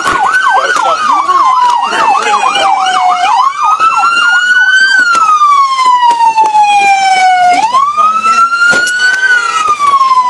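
Police car sirens: a wail rising and falling slowly, one cycle about every four to five seconds, with a second, fast yelping siren sweeping over it for the first few seconds.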